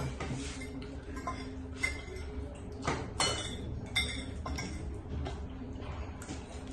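Eating at the table: utensils clinking and scraping against a bowl, with a few sharper clinks near the middle.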